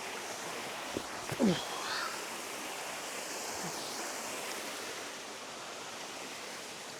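Water of a small stream waterfall rushing steadily. A short, louder falling-pitched sound cuts in once, about a second and a half in.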